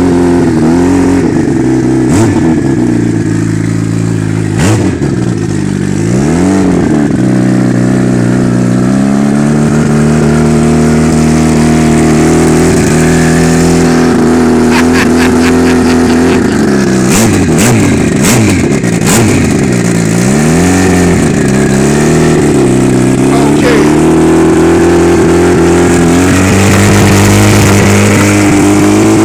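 Sportbike engine running loudly on a rear stand, blipped up and back down in pitch several times, near the start, around a quarter of the way in and again through the second half, holding a steady fast idle in between.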